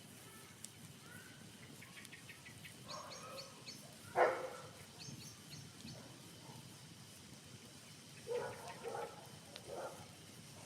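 A dog barking: one loud bark about four seconds in and a short run of barks near the end, with birds chirping in quick short series.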